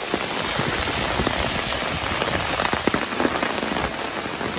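Heavy stormy rain falling steadily, a dense hiss dotted with the sharp ticks of individual drops striking close by.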